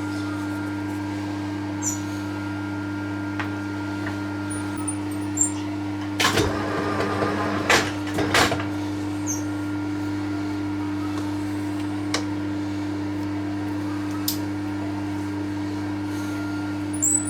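TOS milling machine running steadily with a constant motor and gearbox hum, flycutting an exhaust manifold flat. About six seconds in there is a louder, rougher stretch of grinding and knocking that lasts about two seconds, with a few single clicks elsewhere.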